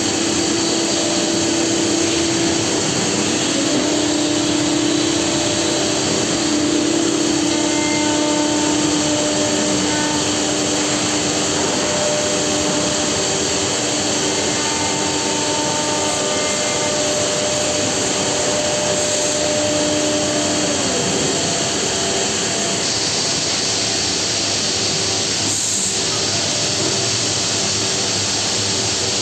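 Homag five-axis woodworking CNC machine running: a steady hiss with several whining tones that shift in pitch and drop out a few times as it works.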